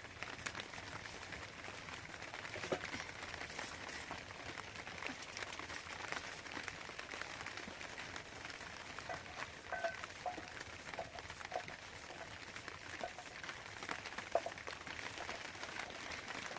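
Steady rain pattering on a surface, an even hiss dotted with fine drop clicks.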